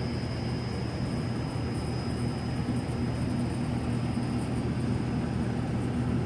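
Steady mechanical hum and rushing noise with a constant low drone and a faint high-pitched whine, unchanging throughout.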